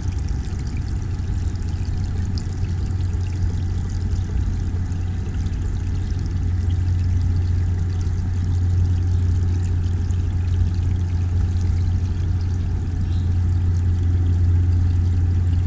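Garden pond water trickling and pouring steadily over a constant low hum.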